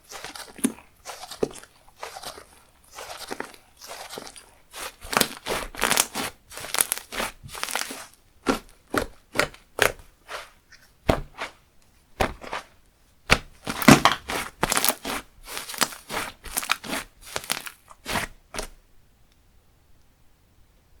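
Slime being squished, pressed and stretched by hand: quick runs of crackling and popping clicks from air pockets in the slime. They stop about eighteen seconds in.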